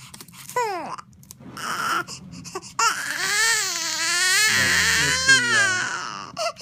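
Newborn baby crying: a brief cry about half a second in, then a long, wavering wail from about three seconds in. She is upset at having her cleft lip taped over a nasoalveolar molding retainer.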